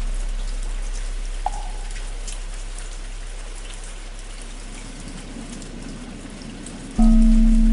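Steady rain with the deep hum of a large temple bell slowly dying away, a light knock about a second and a half in, then the bell struck again near the end, ringing loud and deep.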